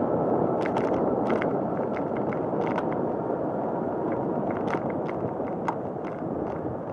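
Riding a bicycle: a steady rush of wind and rolling-tyre noise, with scattered light clicks and rattles from the bike.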